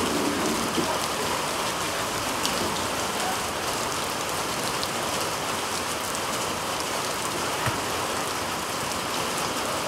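Heavy rain falling in a steady, even hiss, with a few faint taps.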